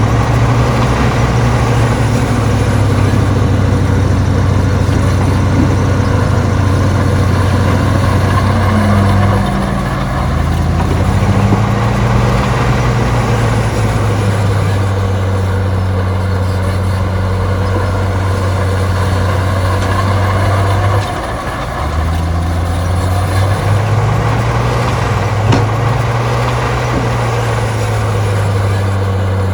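Heavy diesel engine of earthmoving machinery running loud and steady under changing load. Its pitch drops and picks up again about ten seconds in, and again near twenty-one seconds.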